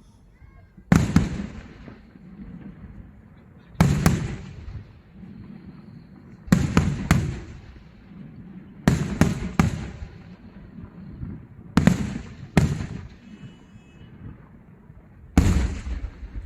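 Daytime fireworks going off: about ten sharp, loud bangs, some single and some in quick runs of two or three, each followed by an echoing tail.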